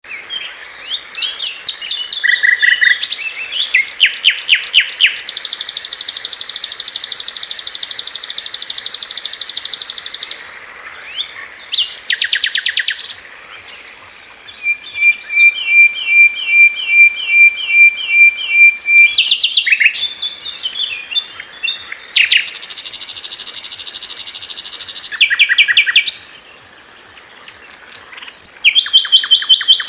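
A sikatan londo flycatcher singing, its song in varied phrases: long, fast, buzzy trills held high, rapid strings of repeated chirps, and quick descending notes, with brief pauses between phrases.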